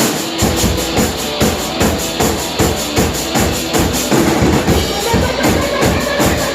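A band playing a song. A full drum kit comes in about half a second in, with bass drum and snare keeping a steady fast beat under the instruments.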